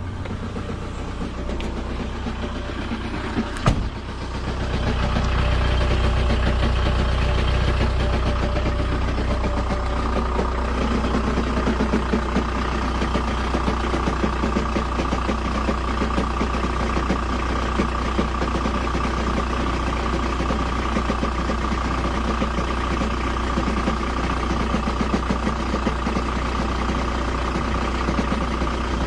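Motorhome engine idling with an abnormal noise that the owner says still isn't right. A sharp knock comes about four seconds in, after which the running is louder, and a steady whine joins about ten seconds in.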